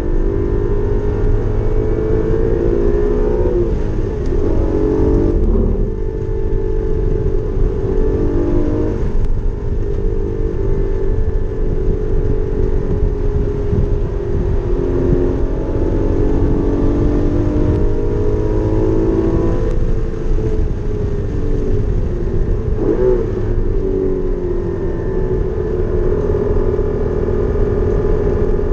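Porsche Cayman GT4's naturally aspirated flat-six engine at track speed, its pitch climbing under acceleration and dropping several times as it comes off the throttle and shifts, over steady road and wind noise.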